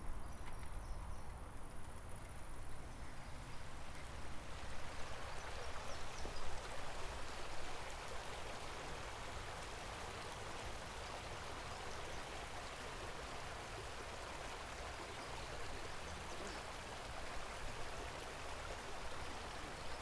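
Running water from a stream: a steady rushing hiss that swells about four seconds in and then holds, over a low rumble.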